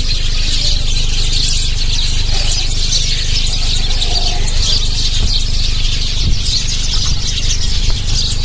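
A flock of house sparrows chirping, a dense, continuous chatter of many overlapping short chirps, over a steady low rumble.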